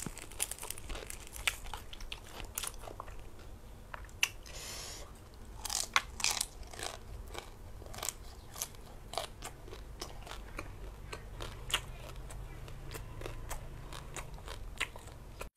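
Close-up eating sounds: irregular sharp crunches and chewing as roast pork with crisp skin is bitten and chewed.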